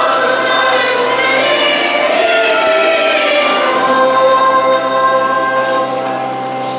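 Church choir singing a hymn, held notes moving from one to the next.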